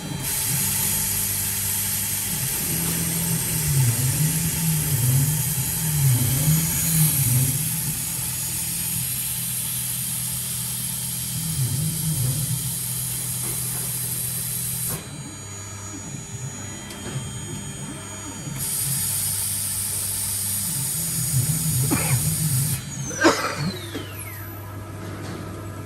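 CNC lock-hole routing machine for aluminium doors running: a low motor hum that wavers up and down in pitch as the axes move, under a steady high hiss from the spindle. The hiss stops for a few seconds midway and comes back, then cuts out near the end with a falling whine as the spindle slows.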